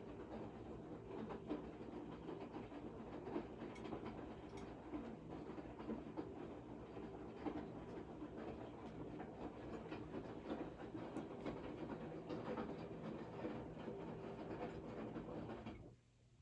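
Washing machine running: a steady hum with irregular knocks and rattles. It cuts off suddenly near the end.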